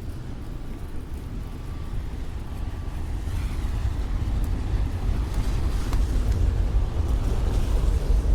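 Street traffic on a wet city road: a steady low rumble with tyre hiss, growing louder from about three seconds in.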